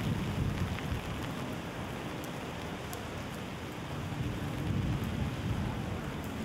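Steady rain falling, with scattered sharp drip ticks and a low rumble that swells near the start and again around five seconds in.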